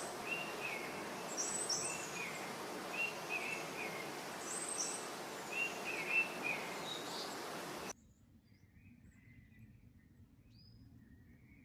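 Outdoor ambience with a steady hiss and a songbird repeating the same short chirping phrase three times, about two seconds apart. The outdoor sound cuts off abruptly near the end, leaving near quiet.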